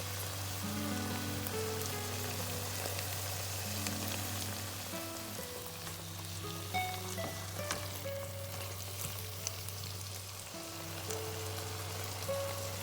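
Food frying in a pan, a steady crackling hiss with small pops, under soft background music with slow held notes.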